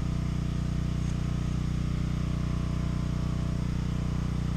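Camp generator's engine running steadily at constant speed, a continuous low hum.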